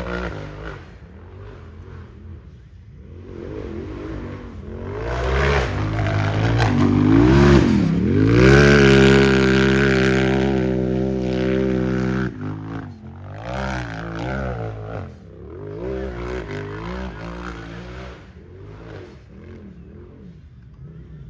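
Unlimited-class race UTV engine revving hard, the revs rising and falling again and again. The loudest stretch comes about halfway through: a quick dip in revs, then a long high-revving pull that cuts off abruptly.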